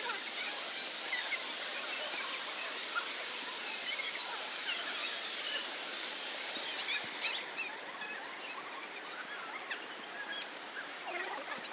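Waterfall's steady rush of falling water, with faint short chirps scattered over it. About halfway through the rush turns quieter and duller.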